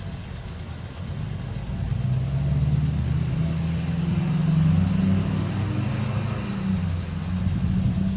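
A motor vehicle's engine going by, getting louder about two seconds in, its pitch rising a little and then easing off.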